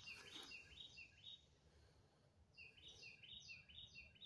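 Faint birdsong: a songbird repeats a short high chirping phrase in two quick strings of four to six notes, with a pause of about a second between them, over quiet outdoor background.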